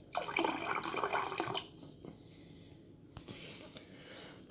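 Water running from the internal trough dispenser of a Hisense American-style fridge for about a second and a half, starting right away without the button being pressed hard because the dispenser is packed with plastic washers. It then drops away, with a single click about three seconds in.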